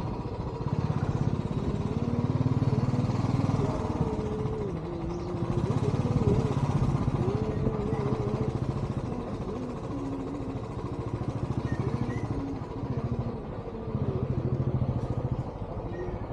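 Royal Enfield Bullet motorcycle's single-cylinder engine running, its pitch and loudness rising and falling every few seconds with the throttle.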